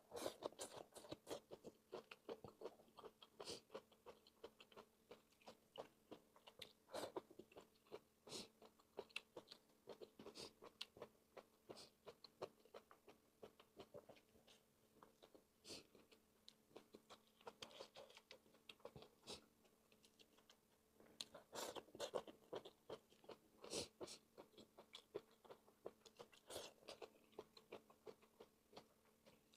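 Faint, close-up eating sounds of a person chewing and biting, with irregular wet mouth clicks and small crunches, as she eats stir-fried bamboo shoots with meat.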